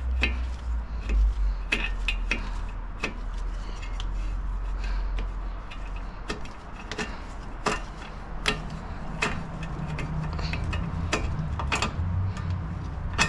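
Hand tools clicking and clinking on metal as a bolt is worked loose: sharp, uneven clicks, some a fraction of a second apart, over a low rumble.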